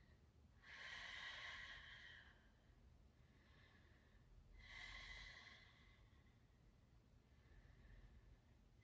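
A woman breathing slowly and softly while holding a wide-legged yoga forward fold: two long breaths, about a second in and about five seconds in.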